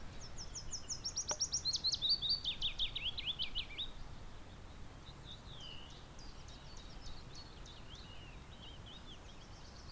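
A songbird singing: a quick phrase of high notes that falls step by step for about four seconds, then softer scattered chirps, and the falling phrase starts again near the end.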